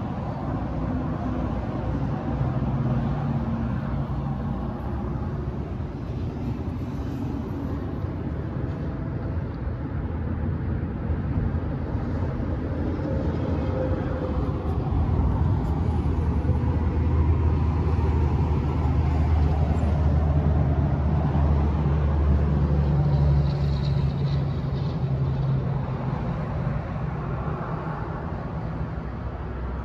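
Nissan Pathfinder's 3.5-litre V6 idling: a steady low rumble that swells for several seconds in the middle, then settles.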